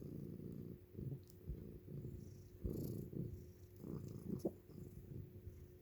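Domestic cats purring contentedly, a faint low rumble that swells and fades about once a second.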